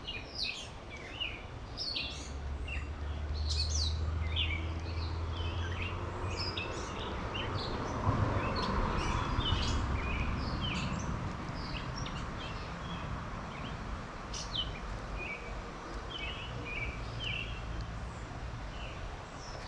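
Songbirds chirping and calling again and again, short high notes over a steady outdoor hiss. A low rumble comes and goes during the first half.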